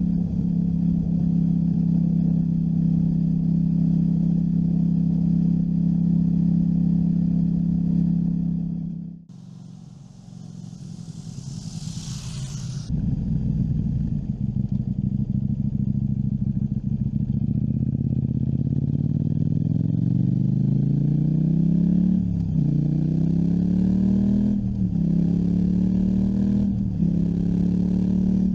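KTM 790 Duke's parallel-twin engine running at a steady cruise. It falls much quieter for a few seconds about a third of the way in, with a high hiss. Then it pulls hard with rising pitch, upshifting three times near the end.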